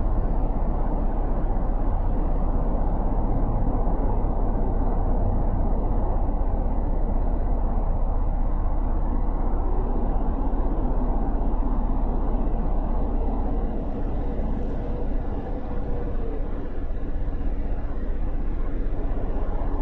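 Riding on a motorcycle: a steady rush of wind and road noise with the engine running under it, easing a little for a couple of seconds about two-thirds of the way through.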